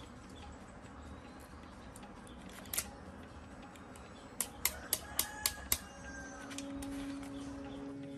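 Sharp metallic clicks from tools or parts being handled: one click, then a quick run of about six a few seconds later. A steady low hum sets in near the end.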